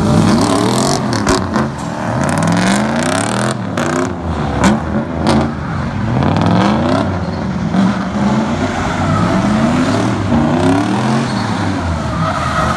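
Drift cars' engines revving hard, their pitch climbing and dropping again and again as the cars slide past, with a few sharp cracks in the first few seconds.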